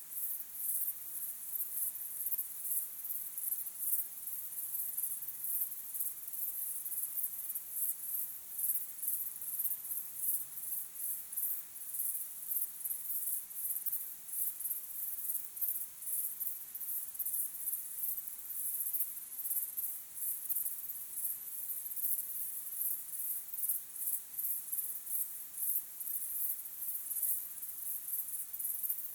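Chorus of crickets chirping: a continuous, dense, high-pitched pulsing.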